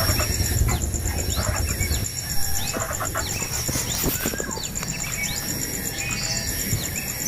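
Small birds chirping in quick, short downward notes over a steady, rapidly pulsing high insect trill. A low engine rumble fades out about two seconds in.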